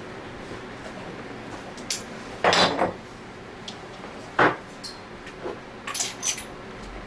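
Small metal parts and tools being handled and set down: a short scrape about two and a half seconds in, a sharp clink near the middle, and a few light ringing clinks near the end.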